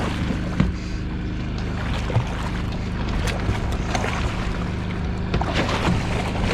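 Predator 3500 portable generator running steadily, a low even hum, with a few short knocks on the boat.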